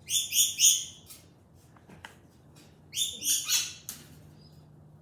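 Pet bird calling: a quick run of three loud, harsh chirps at the start and another run of three or four about three seconds later.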